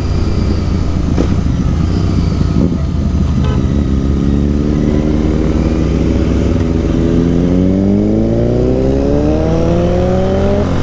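Royal Enfield Interceptor 650 parallel-twin running under way, its engine note climbing steadily through the second half as it accelerates. A few brief clicks sound in the first few seconds.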